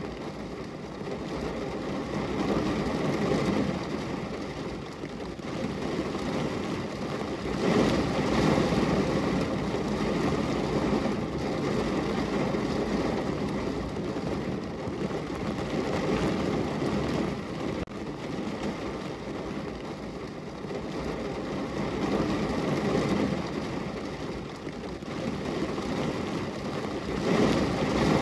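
Steady rain on a window, an even hiss and patter that swells and fades every few seconds.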